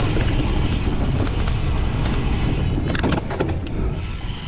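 Wind buffeting the microphone of a camera riding along on a cyclocross bike, a steady low rumble, with a quick cluster of rattling clicks about three seconds in.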